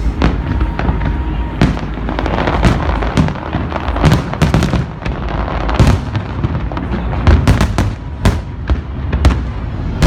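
Large aerial fireworks display: shells bursting in quick, irregular succession with sharp bangs over a continuous low rumble, and a dense stretch of crackling about two seconds in.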